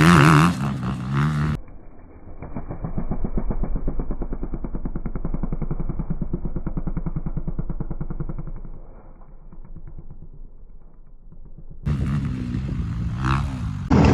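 Honda CRF250R's single-cylinder four-stroke engine revving. It then drops to a deep, muffled pulsing that fades to a low level, like the engine sound slowed down, before the full engine sound comes back near the end and rises sharply.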